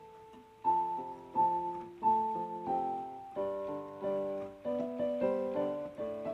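Background piano music: a slow melody with chords, each note struck and fading.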